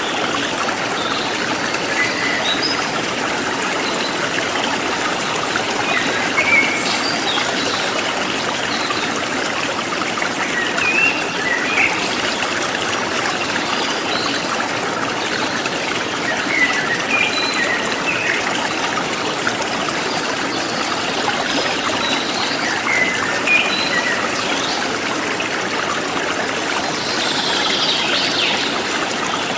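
Steady flowing and trickling of a forest stream, with short bird chirps scattered throughout and a louder bird trill near the end.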